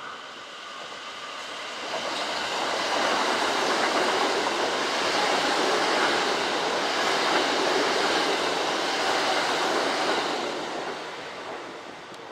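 A Kintetsu electric train passing through the station, its running noise swelling over the first few seconds, holding steady and loud, then fading away near the end.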